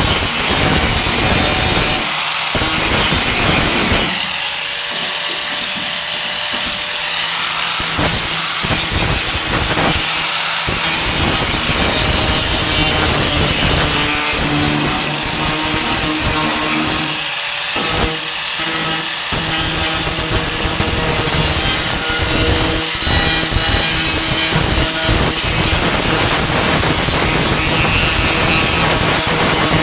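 4.5-inch angle grinder working the sheet metal of a Ford Ranger's bed wheel arch, a continuous grinding noise with a few short letups.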